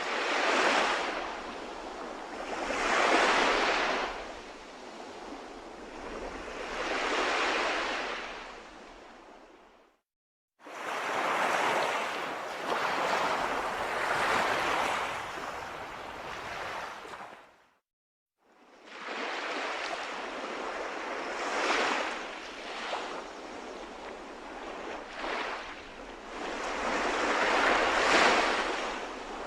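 Sea waves breaking and washing ashore, the surf swelling and fading every few seconds. The sound cuts out to silence twice for about half a second.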